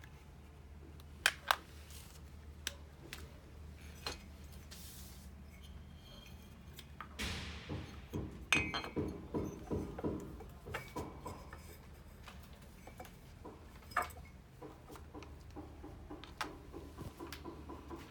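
Scattered sharp clicks and clinks of hard objects, with a busier cluster of knocks and clatter about seven to eleven seconds in, over a low steady hum.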